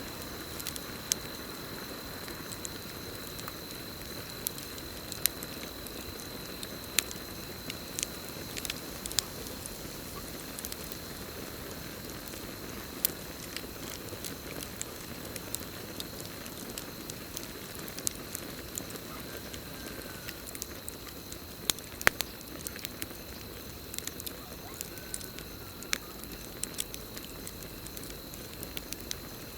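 Campfire burning with a steady hiss and irregular sharp crackles and pops, over a continuous high, steady trill of crickets.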